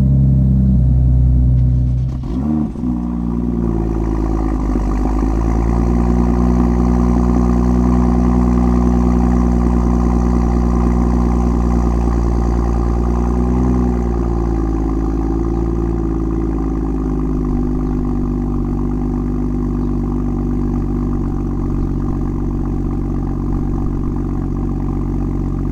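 A BMW M2's N55 turbocharged straight-six through its stock exhaust, cold-started: a short break and a quick rev flare about two and a half seconds in, then a steady, fast cold idle that the owner calls slightly loud.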